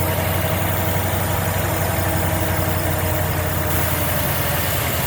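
Freshly rebuilt AMC 360 V8 with Holley EFI fuel injection idling steadily just after start-up, smooth and quiet.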